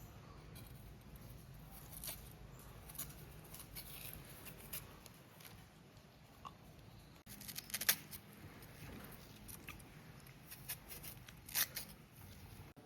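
Faint scattered clicks and light rustling over a low steady hum, with a few sharper clicks about eight and eleven and a half seconds in.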